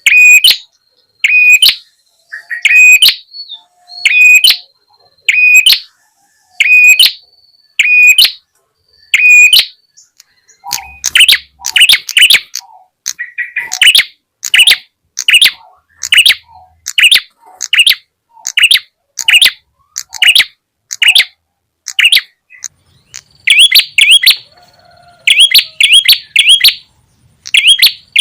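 Repeated sharp calls of a small songbird, from a lure recording for the prenjak tamu (red-headed prenjak). Single calls come about every second and a half at first. From about ten seconds in the calls run faster, roughly two a second, and near the end they come in clusters of quick rising notes.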